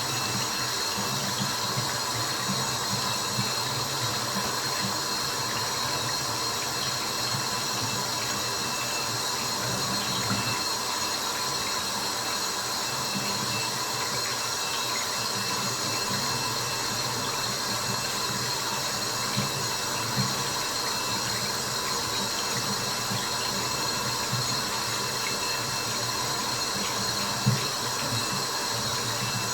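Steady rush of running or dripping water, unchanging throughout, with a few faint sharp ticks like single drops, one plainer near the end, and faint steady whines held underneath.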